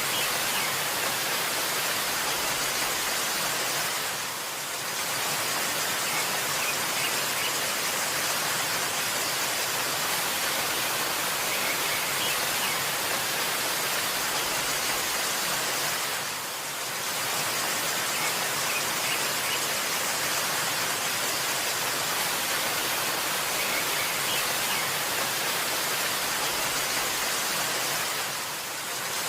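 Waterfall rushing steadily, an even hiss of falling water that dips briefly in level about every twelve seconds.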